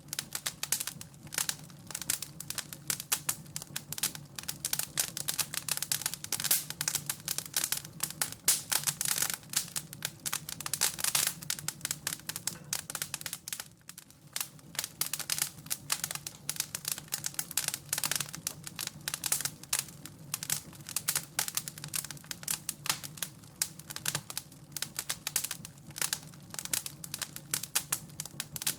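Wood fire in a fireplace crackling and popping in a dense, irregular run of snaps, with a brief lull about halfway through.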